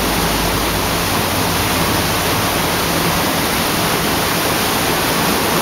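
Heavy downpour of rain, a loud, steady hiss.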